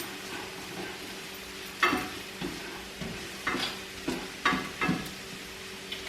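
Chicken tenderloins sizzling in hot oil in a skillet, with a utensil knocking and scraping against the pan about eight times from about two seconds in as the food is stirred.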